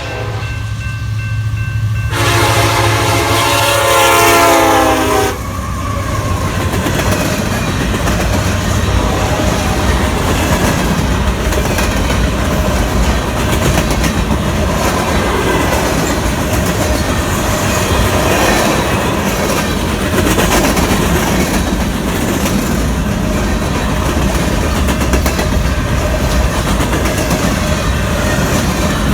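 Union Pacific freight train passing: the locomotive's horn sounds for about three seconds with a slightly sagging pitch and cuts off abruptly, then the freight cars roll by with steady wheel-on-rail rumble and clatter.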